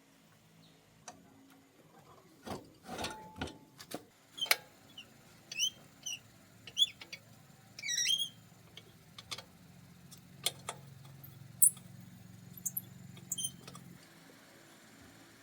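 Scattered sharp clinks and knocks, like metal parts and tools being handled, with runs of short high chirps between them. A faint low hum sounds for several seconds toward the end.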